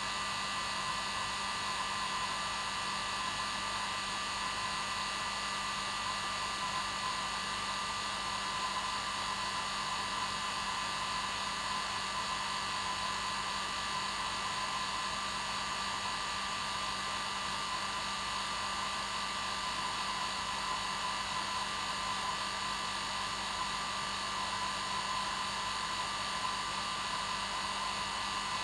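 Hair dryer running steadily on its normal setting: an even whooshing rush of air with a steady motor hum and whine, unchanging throughout.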